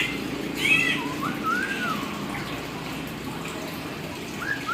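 Hill myna giving a short call, then a whistle that rises and falls about a second in, and another arching whistle near the end, over a steady rushing hiss like running water.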